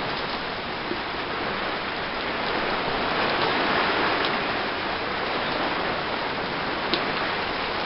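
Rain falling steadily in a storm, swelling a little in the middle, with a couple of faint drop ticks.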